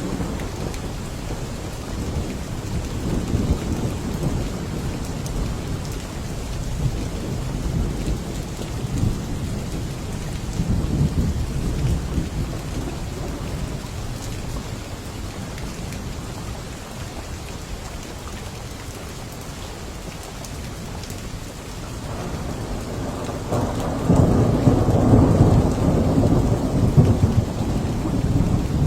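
Steady heavy rain with rolling thunder: low rumbles swell and fade in the first half, and a louder rumble builds about 23 seconds in and carries on to near the end.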